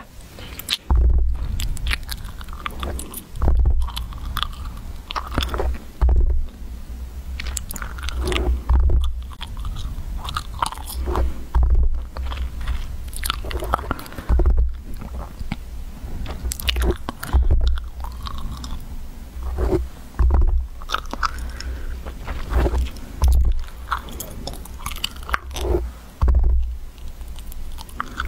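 Fingers and nails scratching and grabbing a microphone close up: irregular crackling scrapes with repeated low thumps of handling noise.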